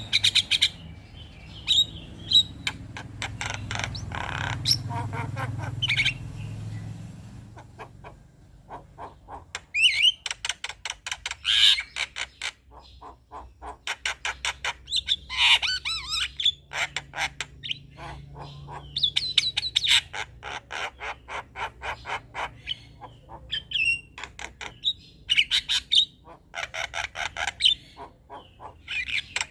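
Male Javan myna (jalak kebo) singing: bursts of rapid clicking rattles mixed with harsh squawks and chirps, each phrase lasting a second or two with short pauses between.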